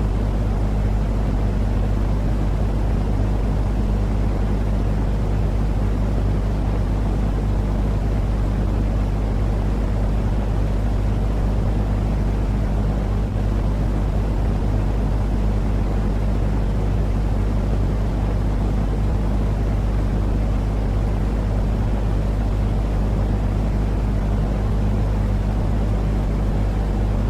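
Steady low rumbling noise with a faint hum running through it, played as a sleep sound to calm crying and colicky babies. It does not change at all.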